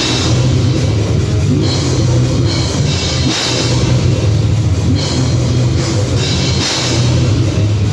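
Heavy metal band playing: loud distorted guitars and bass over a drum kit, with regular cymbal crashes.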